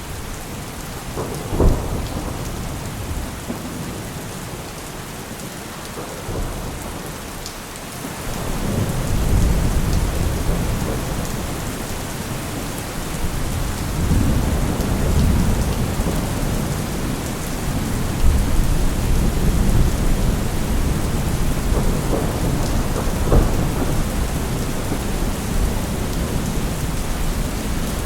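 Steady rain hiss with low rolling thunder. The thunder swells about a quarter of the way in and keeps rumbling in waves. One brief sharp hit comes near the start.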